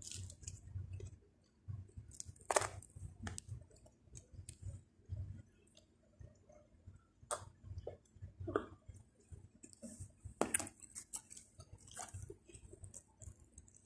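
Close-up chewing and mouth sounds of someone eating pizza: soft, irregular chewing with occasional sharp clicks.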